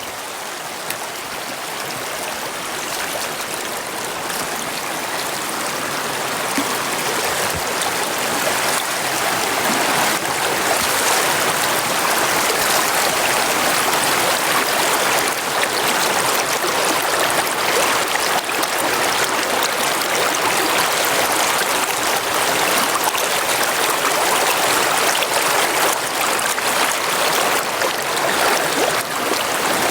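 Brook water running steadily. It grows louder over the first ten seconds or so, then holds at a constant rush.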